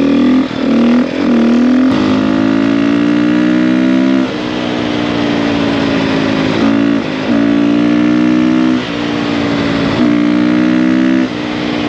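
A 450 dirt bike's single-cylinder engine under way on a trail. Its note climbs steadily in pulls of a second to a few seconds, then drops back sharply about seven times as the throttle is rolled off or a gear is changed.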